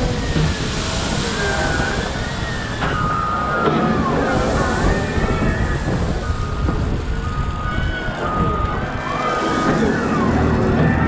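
Caterpillar 972M XE wheel loader working: its diesel engine runs with a steady low rumble under several whining tones that glide up and down and break off, from the drivetrain and hydraulics as the machine moves and works its bucket.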